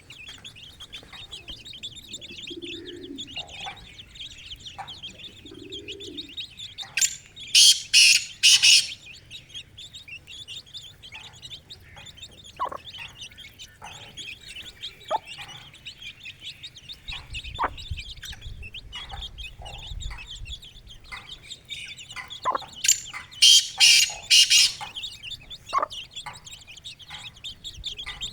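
Chicks peeping continuously, with three soft low calls in the first few seconds and many short ticks. Twice, loud harsh sounds break in for a couple of seconds.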